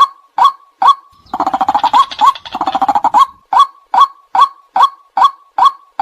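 White-breasted waterhen calling: a repeated series of loud 'kwak' notes, a little over two a second. About a second in, a fast, dense chattering run lasts about two seconds before the steady series resumes.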